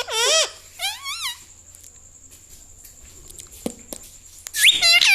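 Ringneck parrot giving short, high calls that waver quickly in pitch: two in the first second and more near the end.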